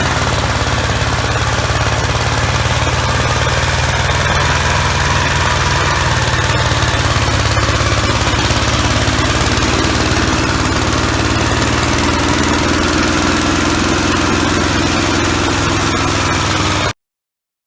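1966 Gravely LI tractor's engine running steadily; the sound cuts off abruptly near the end.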